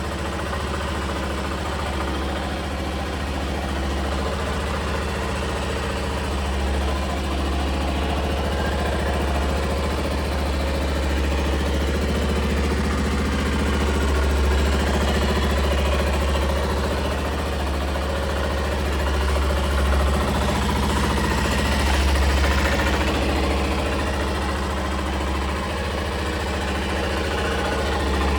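Honda Little Cub's small single-cylinder four-stroke engine idling steadily, with a few slight swells in its note.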